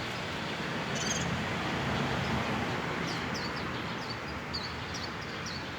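Small birds chirping: one short high chirp about a second in, then a run of quick, high, downward-slurred chirps in the second half, over a steady outdoor background rush.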